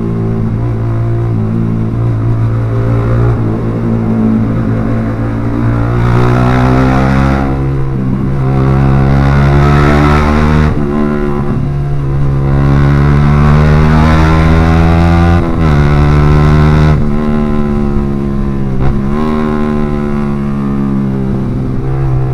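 Yamaha R15 V3's single-cylinder engine running through an aftermarket Proliner exhaust while riding, its revs climbing and then dropping back several times as the rider works the throttle and gears.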